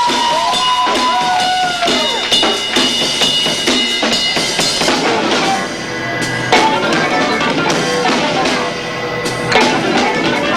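Live rock band launching into its set: a few arching, sliding tones for about two seconds, then the full band crashes in with dense drumming from two drum kits under bass, guitar and keyboard. It is a distorted, low-fi camcorder recording of a loud club show.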